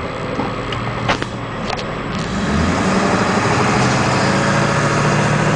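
Ford 7.3 litre turbo-diesel V8 of a 2000 Ford E450 bus, heard from inside the cab while driving, with a few sharp clicks in the first two seconds. About two seconds in the engine note gets louder and stays steady.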